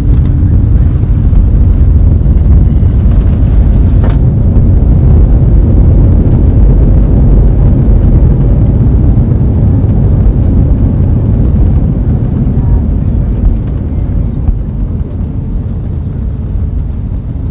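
Loud, steady roar of jet engines and rushing air inside the cabin of an Airbus A320neo, easing off slightly in the last few seconds.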